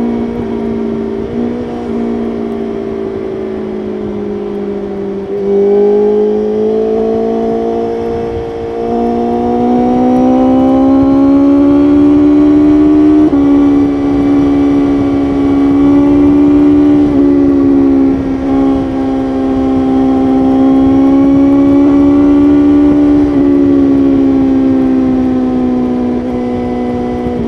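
BMW S1000RR's inline-four engine under load at highway speed, with wind rush. The engine gets louder about a fifth of the way in and its pitch climbs steadily, then holds high. Its pitch steps suddenly a few times, from gear changes or throttle changes.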